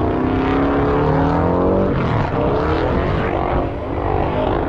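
Car engine held at high revs, its pitch rising and falling as the throttle is worked, over a rough noisy rumble.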